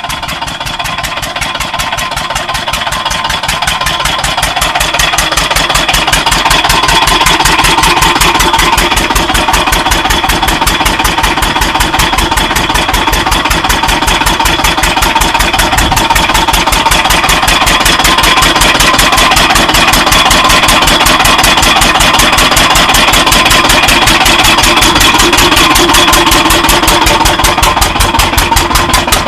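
Farm engine running steadily with an even, rapid beat. It grows louder over the first several seconds, then holds level.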